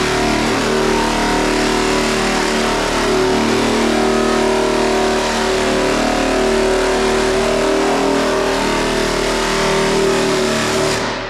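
Long straight-line body sander running steadily on body filler, a loud machine hum with a hiss of abrasive over it, winding down and stopping near the end.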